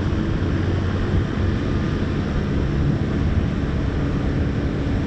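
Hovercraft under way on a trial run, its engines and air propellers giving a steady low drone with a hum.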